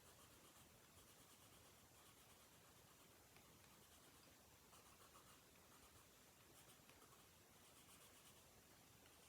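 Very faint scratching of a colored pencil shading on paper, in short, uneven strokes.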